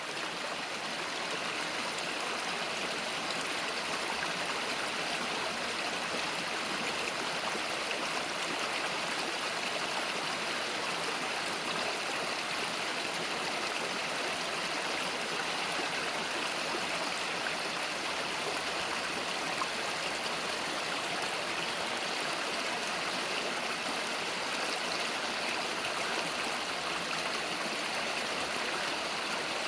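A small countryside river flowing over rocks, a steady rushing and burbling of water.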